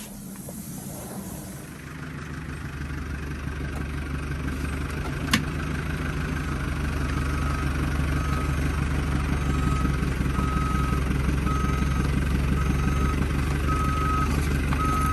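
A vehicle engine running steadily and growing louder, with a reversing alarm beeping about once a second from about halfway on. There is one sharp click about five seconds in.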